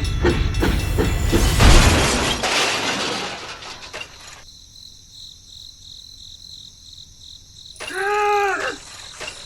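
A loud crash with a shattering, breaking sound about a second and a half in, fading over a couple of seconds, after a rhythmic chugging. Near the end comes a short pitched sound that rises and falls.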